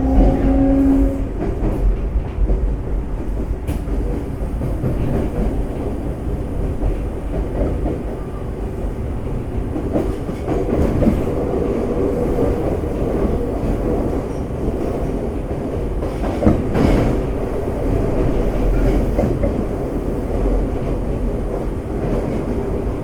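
Semboku Rapid Railway 5000 series electric train heard from inside the passenger car, running at low speed with a steady rumble and wheels clicking over rail joints and points. A steady two-note hum from the Hitachi GTO VVVF inverter drive stops about a second in.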